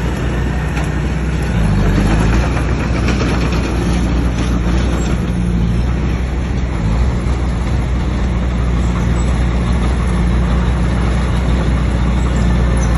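Heavy diesel engine of earthmoving machinery running loudly and steadily under load, with the engine note shifting briefly about two seconds in.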